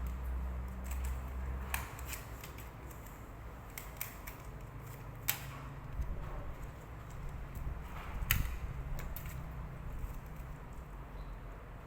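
Metal surgical instruments clicking and snipping during a cat castration, sharp clicks a few seconds apart over a low hum that fades after about two seconds.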